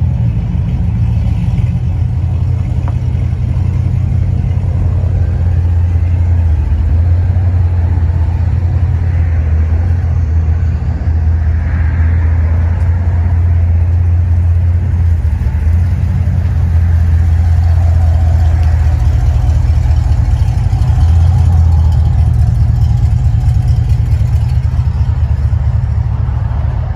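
Chevrolet Silverado SS's V8 running steadily through an aftermarket exhaust: a deep, continuous rumble that swells a little in level now and then.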